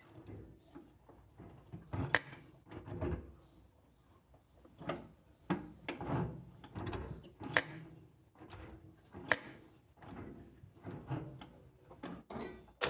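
Scattered clicks and knocks of hands and tools working on the engine while it is stopped, three of them sharper than the rest.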